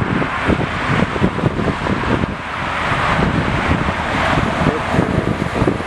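Wind buffeting the microphone in uneven low gusts, over a steady rushing noise.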